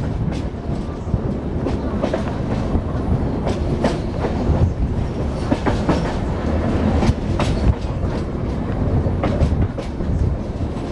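Passenger train running, heard from aboard: a steady rumble of coaches on the rails, with wheels clicking sharply and unevenly over rail joints.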